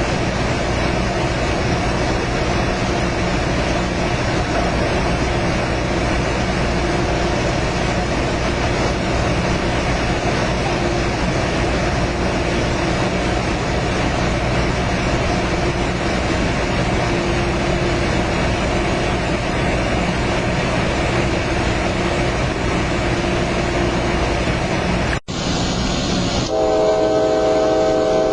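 Steady running noise of a moving Altamont Corridor Express commuter train. After a brief cut near the end, a train horn sounds a steady chord of several notes.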